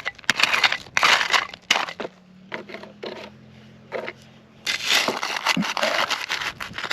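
Pick scraping and chopping into gravelly soil in bursts, digging out a metal-detector target. There is a quieter pause of a few seconds in the middle before the scraping resumes.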